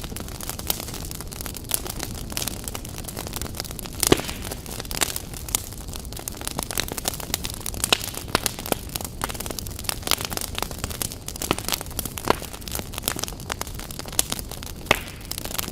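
Wood fire burning in a fireplace, crackling with irregular sharp pops over a low steady rumble; the loudest pop comes about four seconds in.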